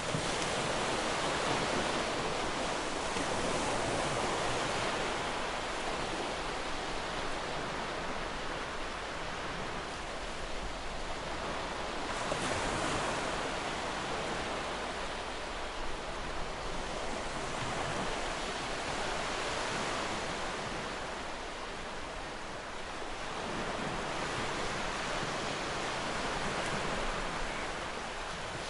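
Ocean waves breaking and washing onto a beach, a continuous surf that swells and eases every several seconds.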